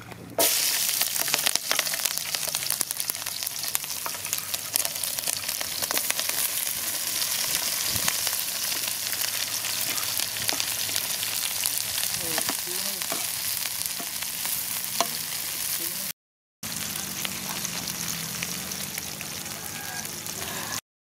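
Sliced onions and green chillies sizzling in hot oil in a large aluminium pot: a dense crackling hiss that starts suddenly as they go in, about half a second in, then runs on steadily. It cuts out for half a second near the end.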